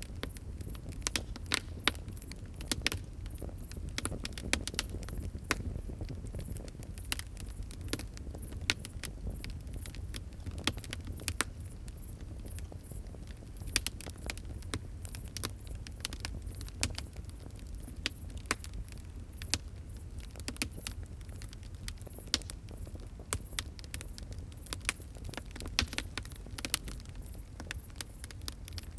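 Fire crackling: irregular sharp pops and snaps, several a second, some louder than others, over a low steady rumble.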